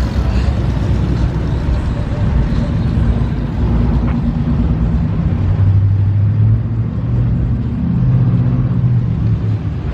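Car engine running with a low rumble, a steady low drone coming in a few seconds in and shifting a little in pitch.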